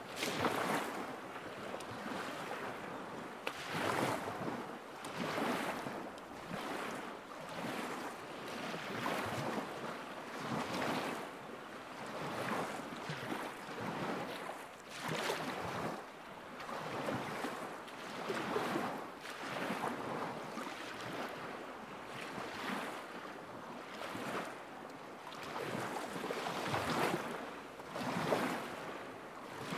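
Small lake waves lapping against the shore, a soft wash that swells and falls every second or two.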